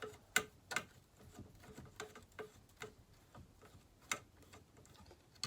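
A hand tool tightening a fastener on a Homelite XL-12 chainsaw, making about six sharp, separate small clicks at uneven spacing.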